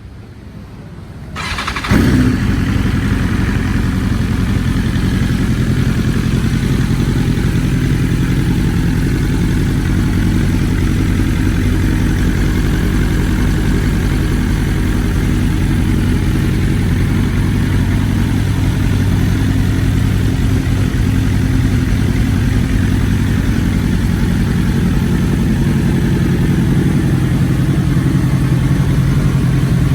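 2020 BMW S1000RR M's inline-four engine starting: a brief crank that catches about two seconds in, then idling steadily.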